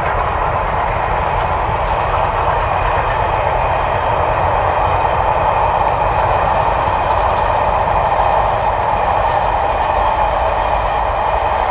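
A passing train running steadily, with a constant rolling rumble and no rise or fall in level.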